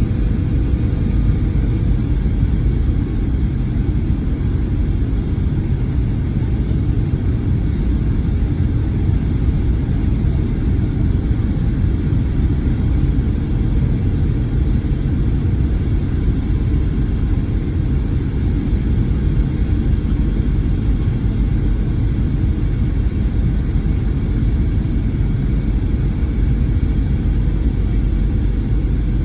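Steady low rumble inside the cabin of a Boeing 737-900ER, from its CFM56 engines and the airflow past the fuselage, with a faint steady hum above it.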